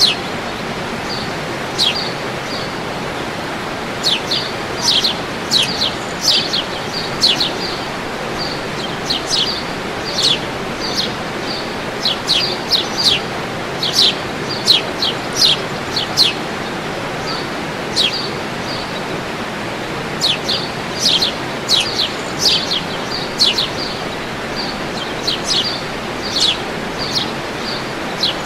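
Birds singing in repeated clusters of quick, high, downward-sweeping chirps and short notes, over the steady rush of a waterfall.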